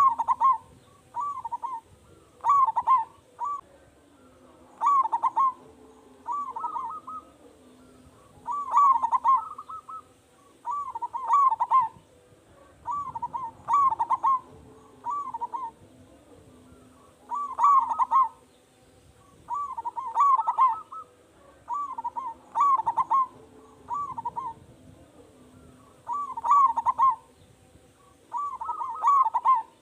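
Zebra dove (perkutut) cooing: short groups of rolling coo notes, repeated every second or two.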